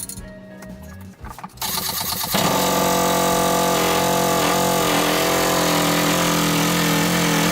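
Small excavator engine, just fitted with a new timing belt, turning over for about a second then catching about two seconds in and running steadily at a constant speed.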